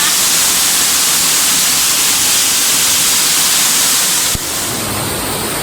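Waterfall rushing close by, a steady hiss of falling water; about four seconds in it cuts abruptly to a slightly quieter rush.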